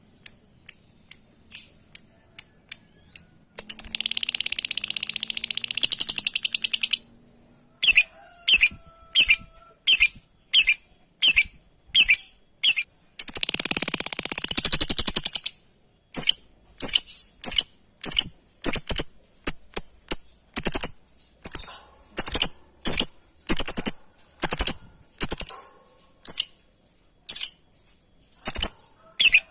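Lovebird calling to its companions: a long series of short, shrill chirps, about two a second. Twice it breaks into a few seconds of rapid, continuous chatter.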